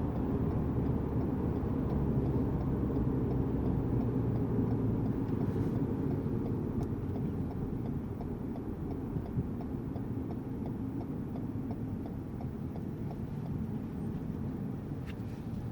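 Lexus GS200t's 2.0-litre turbocharged four-cylinder engine and road rumble inside the cabin, cruising gently to cool down. Faint, even ticking of the turn signal runs over it at about three ticks a second.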